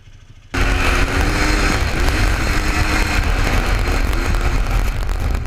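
ATV engine running hard, with a heavy low rumble, cutting in abruptly about half a second in.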